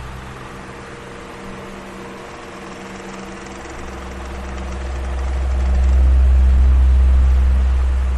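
Electric fan running with a steady motor hum. A low rumble of moving air swells loudest about six seconds in, then eases off again.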